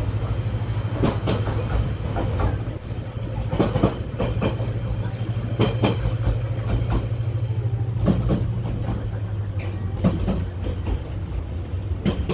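Passenger train heard from inside its carriage as it runs: a steady low rumble, with irregular clacks and knocks of the wheels over the rail joints and the car body rattling.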